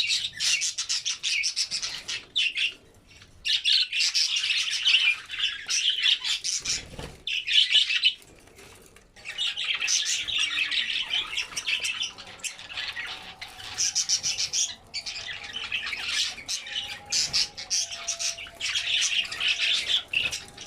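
Budgerigars chattering and warbling in rapid runs of a few seconds, broken by short pauses.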